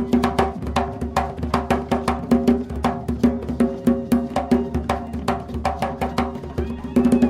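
Gaita music driven by drums: a fast, steady rhythm of sharp strikes, each followed by a short ringing tone.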